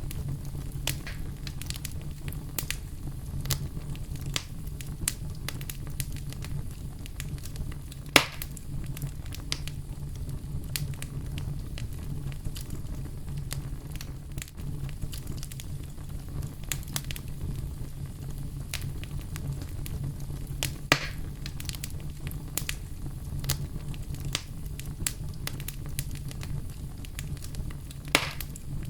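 Bonfire of burning wood crackling steadily, with a constant scatter of small snaps over a low rumble. Three louder pops stand out: one about a third of the way in, one about two-thirds in, and one near the end.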